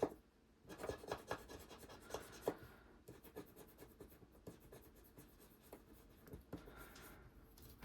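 A scratcher tool scraping the scratch-off coating on a paper savings challenge, in many quick, irregular strokes; faint.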